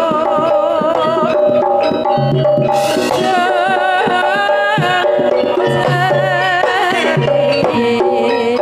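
Campursari ensemble playing: Javanese kendang hand drums beat out a busy rhythm under a wavering, vibrato-laden melody line, with a low bass note coming in and out.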